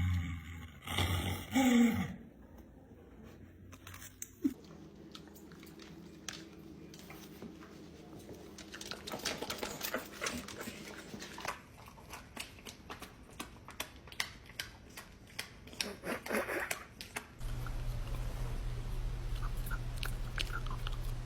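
Dog chewing and biting into a chicken breast: irregular wet crunches and clicks, thickest in the middle. It opens with a brief louder sound, and a steady low hum comes in near the end.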